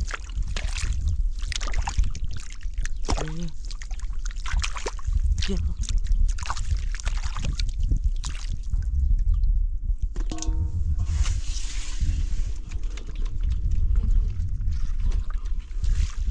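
Water sloshing and splashing in irregular strokes over a steady low rumble, with a short pitched call about ten seconds in.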